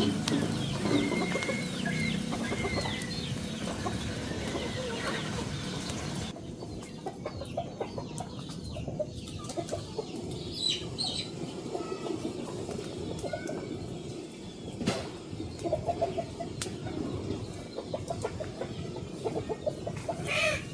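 Chickens clucking and calling in short, scattered calls, with a change in the background about six seconds in.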